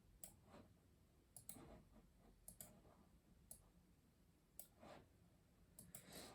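Custom mechanical keyboard being typed on slowly: faint, separate keystroke clicks at uneven intervals, several in quick pairs.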